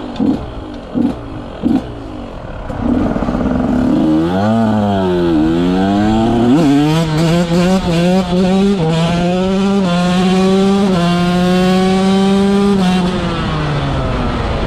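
KTM 125 SX two-stroke motocross engine with an FMF exhaust, blipped a few times and then revved up and down. It then accelerates hard, the pitch climbing and dropping back at each of about three upshifts, before the throttle rolls off near the end.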